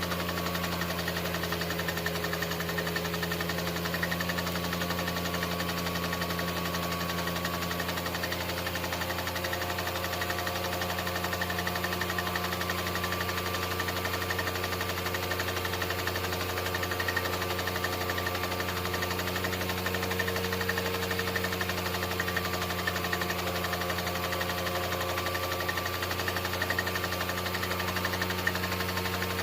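16mm film projector running steadily: a fast mechanical clatter over a low, even hum with several steady tones.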